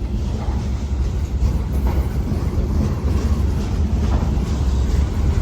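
Loaded freight cars rolling past on the rails, a steady low rumble of steel wheels with faint knocks.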